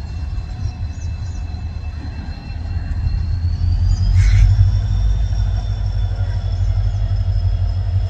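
Arriving passenger express train: a heavy low rumble of the coaches rolling past, growing louder about halfway through. A thin steady high-pitched squeal from the wheels runs over it, and there is one sharp click near the middle.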